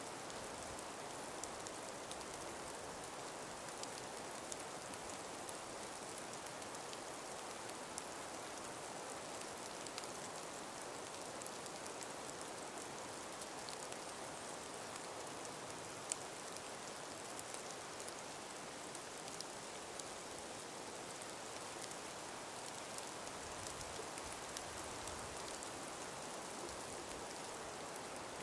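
A calm winter breeze in a forest of ice- and snow-laden trees: a steady soft hiss, dotted with many faint, scattered ticks.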